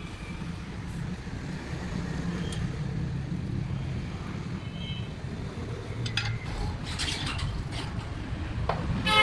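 Low, steady rumble of road traffic, with a few sharp clicks past the middle and a vehicle horn sounding right at the end.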